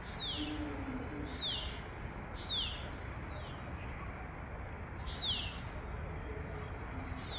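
A bird calling repeatedly: short, quick down-slurred chirps about once a second, with a pause of nearly two seconds past the middle, over a steady background hiss.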